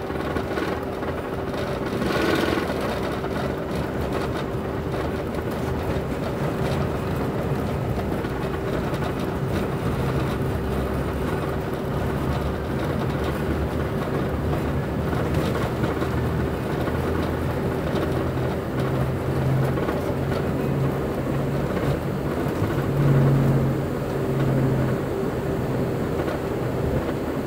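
Cabin noise of a CRJ-900 airliner on the ground: its rear-mounted turbofan engines running with one steady tone over a low, shifting rumble that swells briefly near the end.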